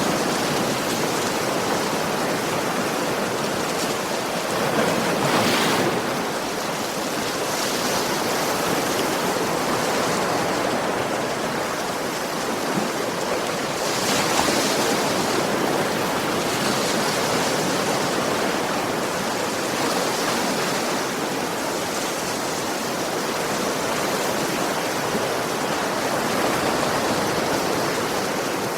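Ocean waves breaking and washing onto a beach, a steady rush of surf that swells now and then as larger waves come in.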